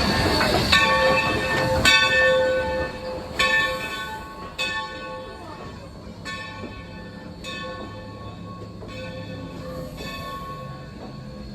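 A railroad bell ringing in slow, evenly spaced strokes, about one every second and a quarter, each stroke ringing on and fading. Under it the train runs, loud in the first few seconds and then quieter.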